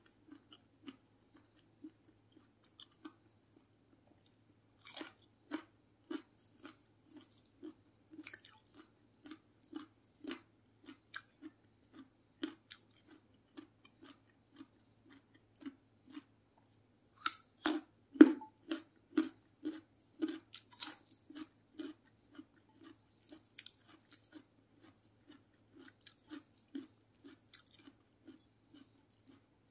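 Close-miked chewing of fried chicken and raw vegetables, about two chews a second, with scattered crisp crunches. The chewing and crunching are loudest about two-thirds of the way through.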